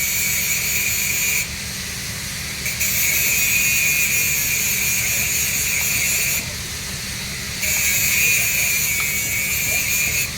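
Electric arc welding on a 3-inch schedule 80 steel pipe: a steady hiss and crackle of the arc that cuts out abruptly twice for about a second each, about a second and a half in and again about six and a half seconds in, over a constant low machine hum.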